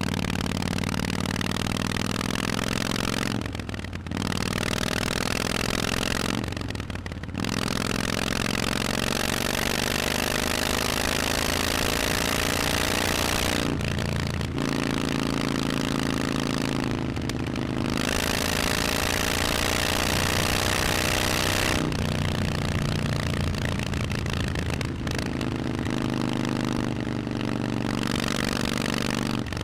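Harley-Davidson Forty-Eight's air-cooled 1200 cc V-twin with Vance & Hines exhausts, ridden under way. The engine pitch climbs slowly and drops back at each of several gear changes, over a steady rush of wind.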